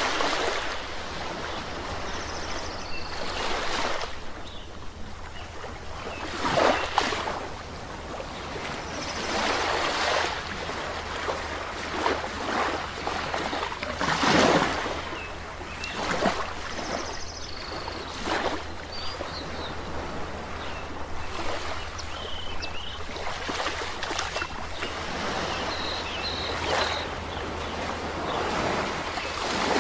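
Sea waves washing and breaking on a shore in irregular surges, with the occasional short, faint bird chirp above them.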